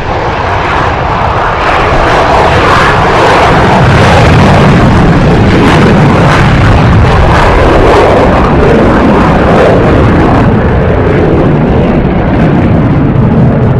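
Sukhoi Su-30MKI fighter jet's twin engines making loud, sustained jet noise that builds over the first few seconds and then holds.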